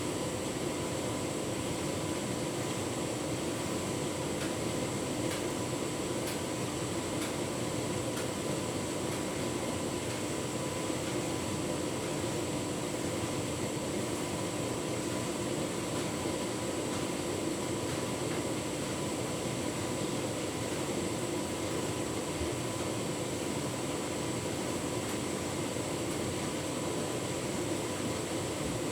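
Tumble dryer running with a full load of bedding: a steady hum of the motor and fan, with a few steady whining tones over it.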